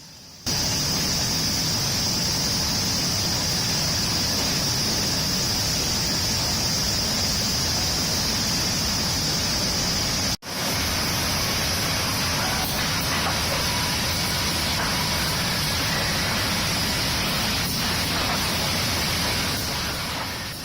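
Sawmill edger line running: a steady industrial machinery noise, with a high hiss over a low rumble. It cuts out for an instant about halfway through and fades near the end.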